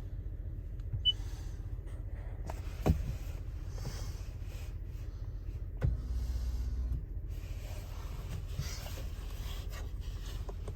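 Power-adjustable steering column of a 2023 Toyota Tundra: its motor runs for about a second, with a few sharp clicks and knocks from the controls around it, over a steady low hum in the cab.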